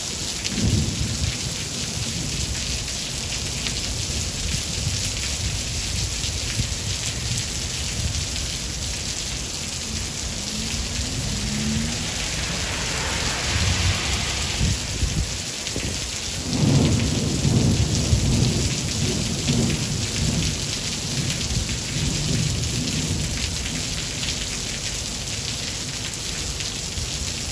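Steady heavy rain with low, rolling thunder throughout. A louder rumble of thunder builds a little past the middle.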